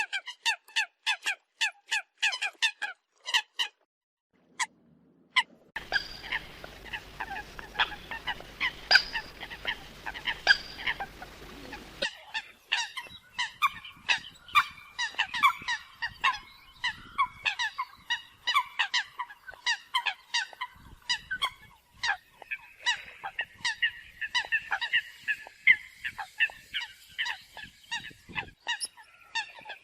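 Eurasian coots calling: a quick run of short, sharp honking calls, several a second and often overlapping. There is a pause of about two seconds a few seconds in, and a steady low hum under the calls from about six to twelve seconds in.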